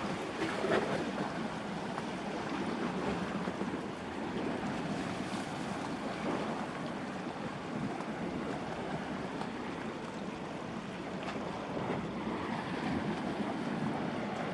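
Steady outdoor ambient noise, an even wash with no clear single source and a few faint ticks.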